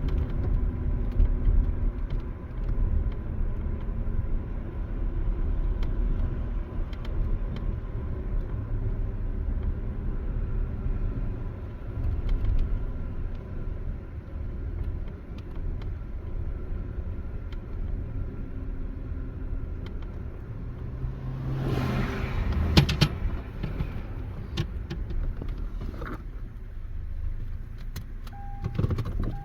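Car driving slowly, heard from inside the cabin as a steady low engine and road rumble. About three-quarters of the way through comes a louder rush of noise with several clicks and knocks, and the rumble then dies down.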